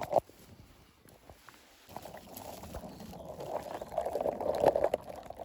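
Rustling and crackling of shrubby vegetation being pushed through or handled. It is quiet with a few clicks at first, then builds from about two seconds in.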